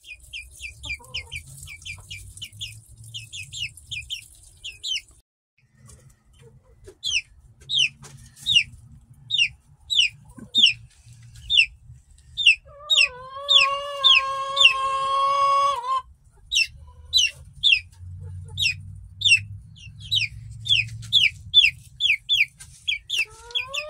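Young chickens peeping in a steady run of short, high, falling peeps, about three or four a second, with a brief pause partway through. In the middle, a young rooster gives one crow of about three seconds.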